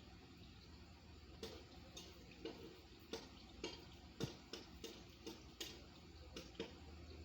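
About a dozen light, irregular clicks and taps over roughly five seconds, the loudest near the middle, over a faint low hum.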